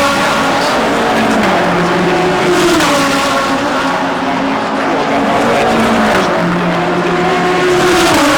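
DTM GT3 race car engines running at racing speed, their pitch stepping down and back up several times as gears are changed.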